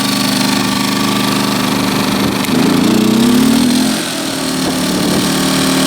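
Champion 2000-watt inverter generator's small engine running steadily in econo mode, then revving up about two and a half seconds in and settling at full speed at a higher, steady pitch.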